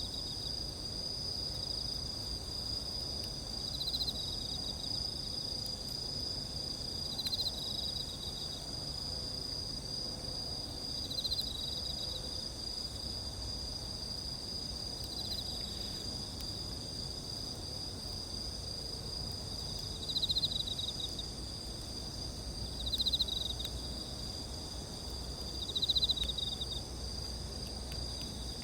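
Crickets and other insects chirping in a steady high-pitched chorus. A louder pulsed trill of about a second comes every three to four seconds.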